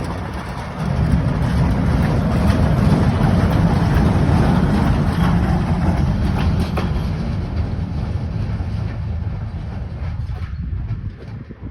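Electric locomotives passing on the rails, with the steady noise of wheels on track; the sound fades away as they move off near the end.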